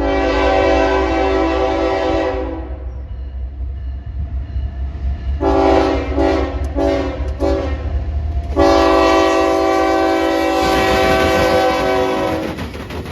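A train's multi-tone air horn sounds a long blast, then about four short toots, then another long blast that stops shortly before the end. Under it runs the steady low rumble of the train.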